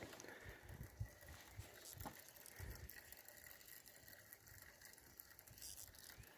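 Near silence: a faint outdoor hiss with a few soft knocks and two short clicks, about one and two seconds in.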